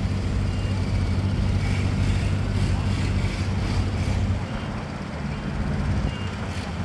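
A steady, low engine drone from a vehicle, easing off slightly about four and a half seconds in.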